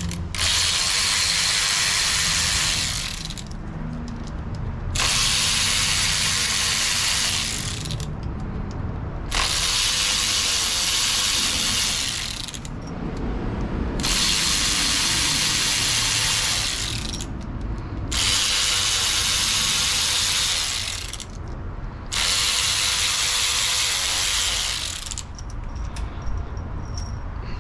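A ratchet backing out six T30 Torx bolts from the engine's timing-chain components, one after another: six runs of about three seconds each, with short pauses between them.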